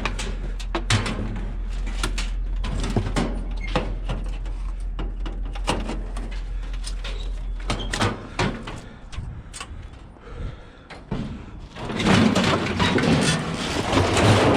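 Scattered knocks and clanks of scrap being handled and loaded, under a steady low hum that stops about eight seconds in. A louder stretch of clattering and scraping comes near the end.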